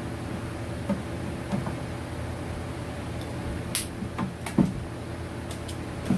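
A few scattered knocks and clicks, the sharpest about four seconds in, over a steady low hum.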